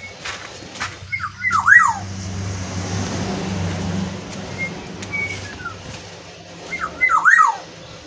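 A bird calling twice, about five seconds apart: each call is a few short high notes followed by quick swooping notes falling in pitch. A low steady hum runs under the middle few seconds, and a few clicks come before the first call.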